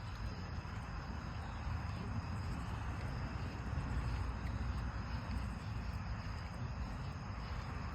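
Steady low rumble of outdoor night ambience, with a fainter hiss above it.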